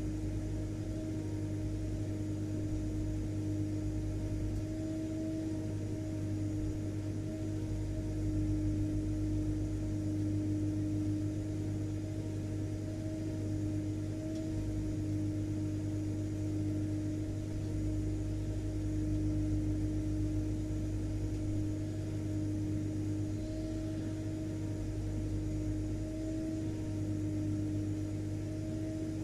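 Vacuum cleaner motor running steadily: a continuous motor hum with a steady tone over a rush of airflow noise.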